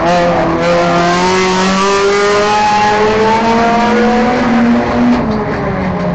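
Enduro race car's engine running hard under throttle, its pitch climbing steadily for about five seconds, then falling off near the end as it comes off the throttle.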